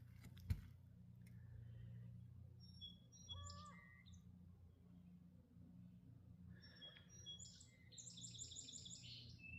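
Faint bird chirps, in scattered short calls and then a quick run of repeated notes near the end, over a low steady hum.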